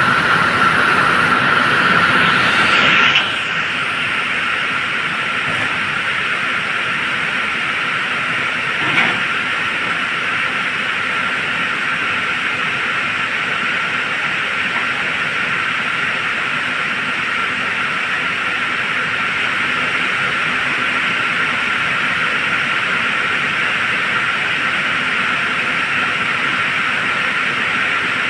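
Steady running noise of a vehicle, a loud hiss with a fixed high whine through it. The level drops a little about three seconds in, and there is one short knock about nine seconds in.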